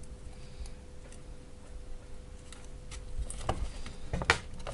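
Scattered light clicks and a few louder knocks, about three and a half and four seconds in, from parts being handled during a battery-pack repair, over a faint steady hum.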